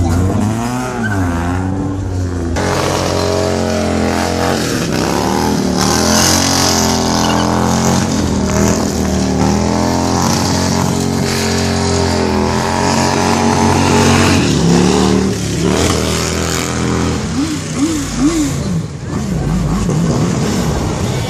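A motor vehicle's engine revving hard and held at high revs during a burnout, its pitch rising and falling, with tyre hiss from the spinning rear wheel.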